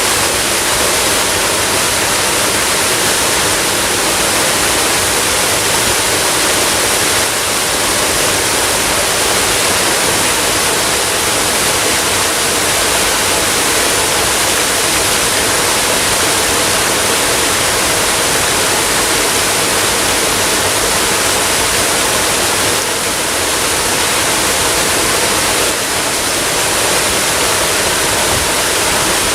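Waterfall: a loud, steady rush of falling water with no break.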